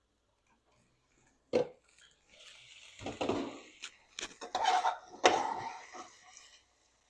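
Kitchen clatter: cookware and utensils knocking together several times, with a steady hiss from about two seconds in until near the end.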